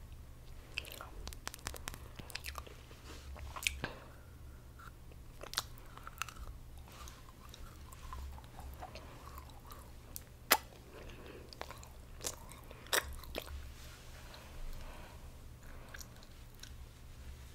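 Chocolate being bitten and chewed close to a microphone: scattered wet mouth clicks and small crunches, with the sharpest snaps about ten and thirteen seconds in. A steady low hum runs underneath.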